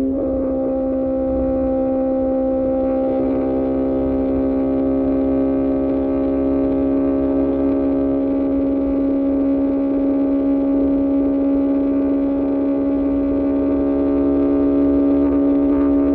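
QJMotor SRK600 inline-four engine through an Austin Racing exhaust, held at a steady engine speed: an even, constant-pitch droning note.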